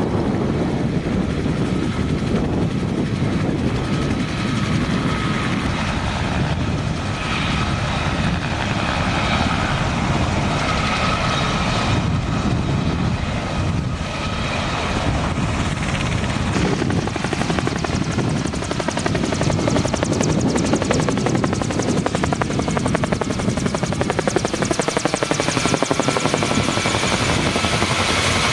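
Bell 47 helicopter flying by: its piston engine and rotor blades make a steady, rapid chopping beat. The sound sweeps in pitch and grows a little louder in the second half as the helicopter passes.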